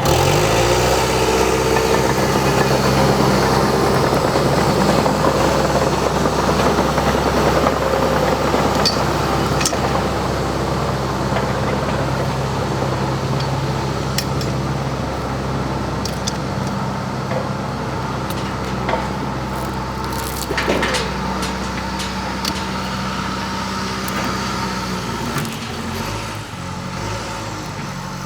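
An engine revs up at the start, then runs steadily, its level and pitch settling lower about halfway through, with a few faint clanks.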